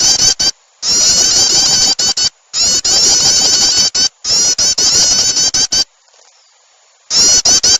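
Recorded prinia (prenjak) lure calls: bursts of fast, repeated high chirping notes, each about a second and a half long, that start and stop abruptly. A longer pause comes near the end before the chirping resumes. The sound is loud and harsh from heavy compression, looped as a lure to draw small birds in.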